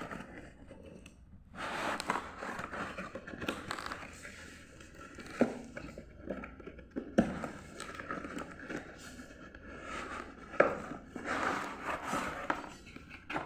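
Cardboard box and plastic packaging being opened and handled: rustling and crinkling with a few sharp knocks.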